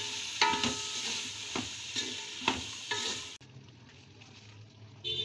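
Chopped beetroot sizzling as it fries in an aluminium pot, with a spoon stirring and knocking against the pot about four times. The sizzle cuts off about three and a half seconds in, and a single ringing metallic clink comes near the end.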